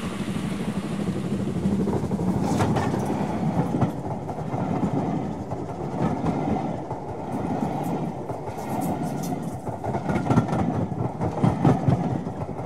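A train running past: a steady rumble with irregular clicks from the wheels on the rails.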